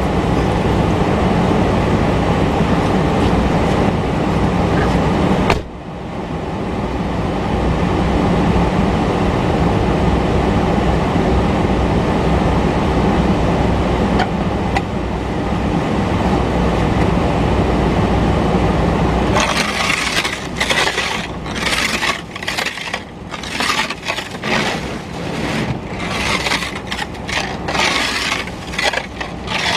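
Car engine idling with the heater blowing as the car warms up in the cold. About two-thirds of the way through, the steady running gives way to a rapid, irregular series of sharp rasping strokes.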